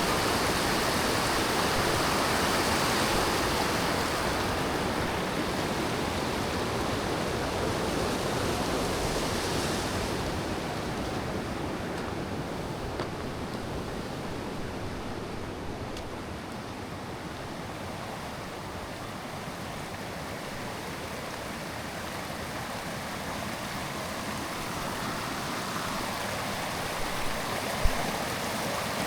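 Steady rush of running water that eases off about ten seconds in, with a single sharp knock near the end.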